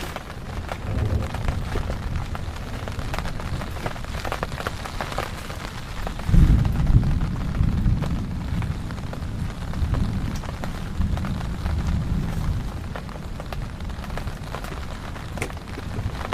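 Heavy rain falling steadily, with many small drop impacts, and a low rumble of thunder that swells about six seconds in and rolls on for a couple of seconds before easing.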